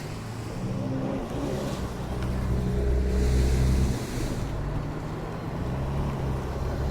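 Car engines rumbling at low speed as cars drive in. The rumble grows louder toward about three seconds in, then drops off suddenly at about four seconds.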